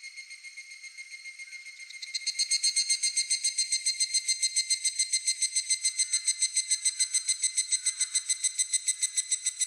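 Higurashi (evening cicada) calling: a loud, rapid, even pulsing, about six notes a second, that starts about two seconds in. Under it runs a steady high-pitched insect trill.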